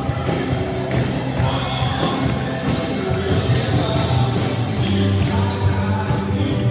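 Live worship band playing a full, rock-leaning song with singing.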